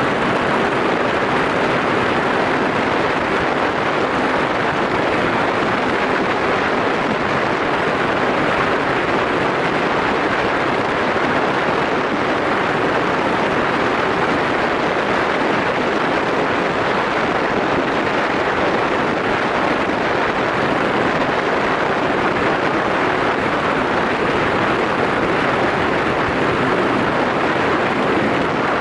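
Steady rush of wind and road noise from a Yamaha SRX4 motorcycle riding at an even speed, with no change in pitch or level.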